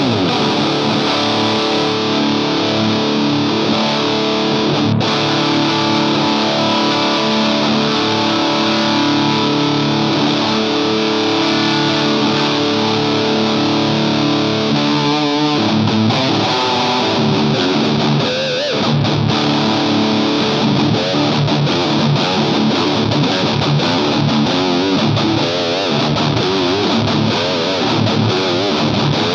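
Electric guitar played through distortion: held, ringing chords for about fifteen seconds, then a change to lead lines with wavering vibrato notes.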